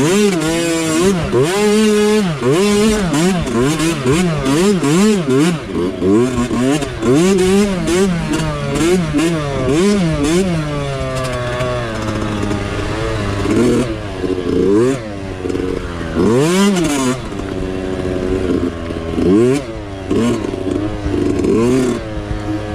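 Small mini dirt bike engine revving up and down over and over as the throttle is worked through the trail. About halfway through it settles to a lower, steadier note with only occasional slower revs.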